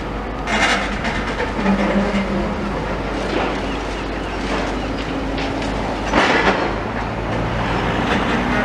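Demolition excavator working on a solid building section: the engine runs steadily under two loud bursts of crunching, scraping masonry, one about half a second in and one about six seconds in.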